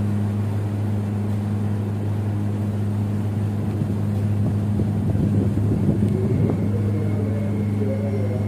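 Steady low electrical hum and rumble of a KRL electric commuter train standing at the platform, swelling into a rougher rumble about five seconds in.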